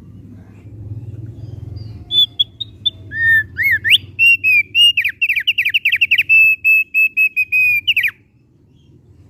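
Opior paruh tebal (thick-billed heleia) singing one phrase of clear whistled notes, starting about two seconds in. It opens with a few short repeated notes and rising notes, runs into a fast string of down-slurred notes, and ends with a long steady note and a sharp upward flick about eight seconds in. A low hum sits underneath.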